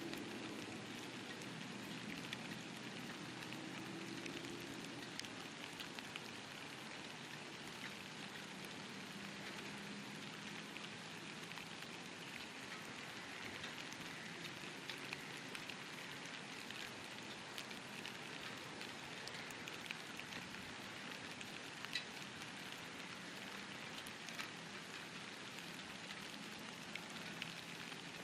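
Steady light rain falling, a soft even hiss with scattered sharp drops ticking on nearby surfaces.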